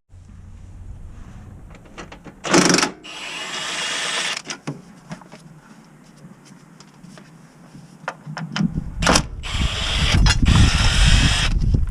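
Power tool run in several bursts while working on the car: a short loud burst about two and a half seconds in and a longer one after it, then two more long bursts near the end over a low rumble.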